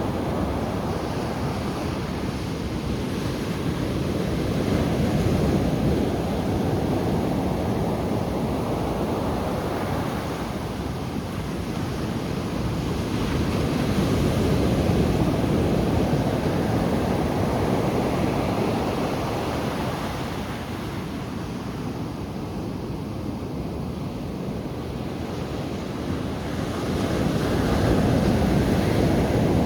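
Ocean surf washing onto the shore as a continuous rush, swelling louder and easing off every ten seconds or so as the waves come in.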